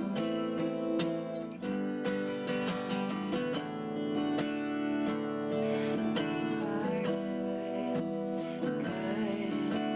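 Acoustic guitar music, steady strummed chords.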